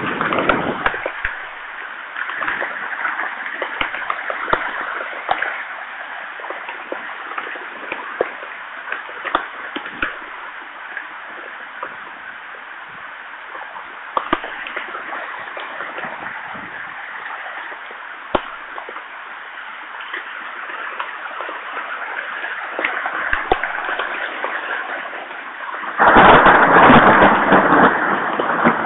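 Heavy rain falling on the forest: a steady hiss with many scattered sharp taps of single drops. A much louder rush dies away in the first second, and another starts suddenly near the end.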